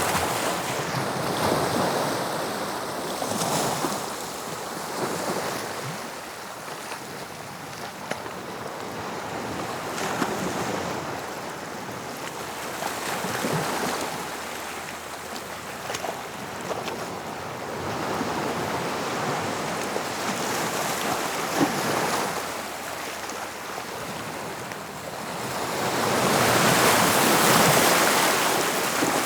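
Sea waves breaking and washing up a beach, in a steady rush that swells and ebbs every few seconds. The biggest wave comes near the end.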